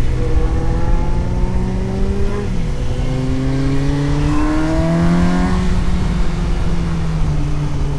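Suzuki GSX-S750's inline-four engine under acceleration: the revs climb, dip at a gear change about two and a half seconds in, and climb again before the throttle eases off around five and a half seconds and the engine runs steadier.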